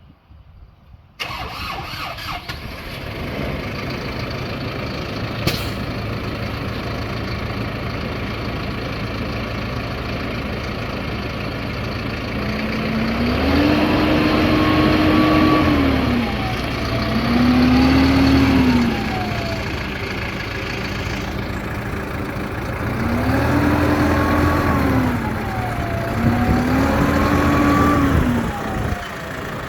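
2019 Kubota M7-171 tractor's four-cylinder turbo-diesel starting about a second in, then idling steadily. It is revved four times in two pairs, each rev rising in pitch, held for a second or two and falling back to idle.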